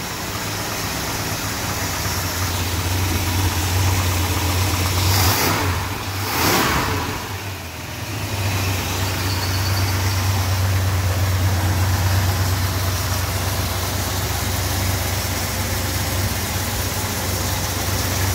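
Freshly rebuilt Chrysler 440 big-block V8 running steadily on its first start-up, with a brief swell of noise about five to seven seconds in, followed by a short dip in level.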